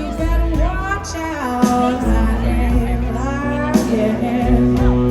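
Live blues-rock band playing a slow groove: long sliding, bending lead lines over bass and drums, with a sharp drum hit about every two seconds.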